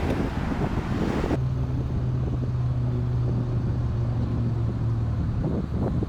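Wind rumbling on the microphone over a vehicle engine. About a second in the sound changes abruptly, and a steady low engine hum runs until near the end.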